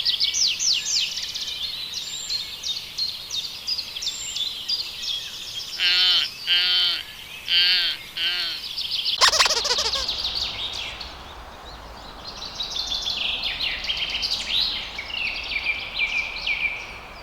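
Small birds chirping and twittering rapidly and continuously, with four short wavering lower calls in the middle.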